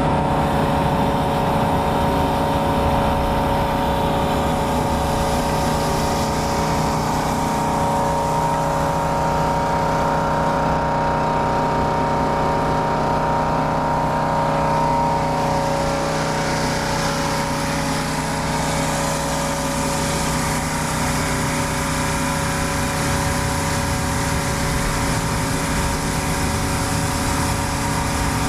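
Stihl RB 400 gas pressure washer engine running steadily, with the hiss of water blasting concrete under a spinning surface cleaner.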